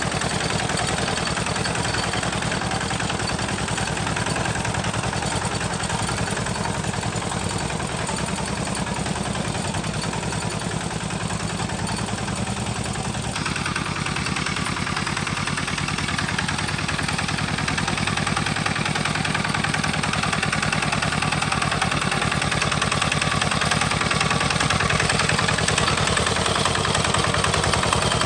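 Homemade tractor's engine running steadily with a fast, even firing beat. Its tone shifts abruptly about halfway through.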